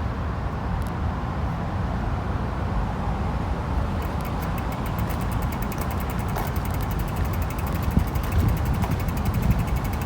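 Wind rumbling on the microphone while cycling. From about four seconds in comes a fast, even ticking, like a bicycle's freewheel clicking as the bike coasts.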